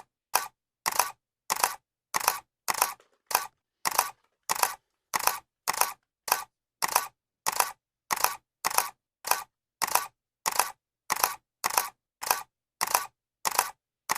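Camera shutter clicking over and over at an even pace, about one click every 0.6 seconds, each a quick double snap.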